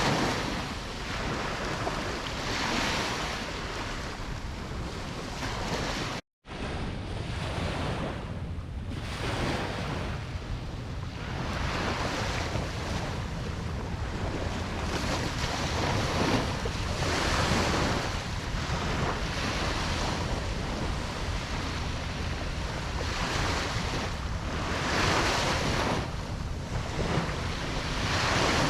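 Ocean waves breaking on a beach: a steady wash of surf that swells and fades every few seconds. The sound drops out completely for a moment about six seconds in.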